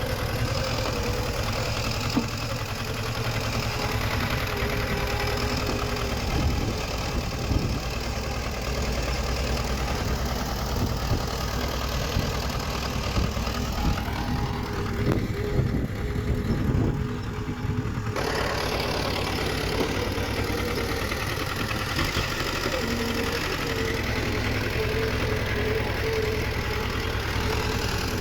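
Diesel engine of heavy earthmoving machinery running steadily, with scattered knocks and clanks through the middle stretch.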